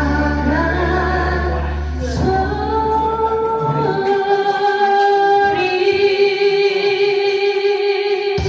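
A woman singing a Korean trot song over a backing track; about halfway through, the bass drops away and she holds one long note with vibrato, which cuts off suddenly near the end.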